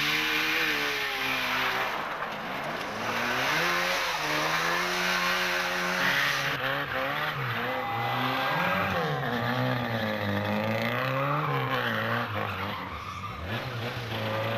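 Rally car engines being driven hard, the pitch rising and falling repeatedly through gear changes and lifts off the throttle, with tyres skidding. The sound shifts about six and a half seconds in, as from one car or shot to the next.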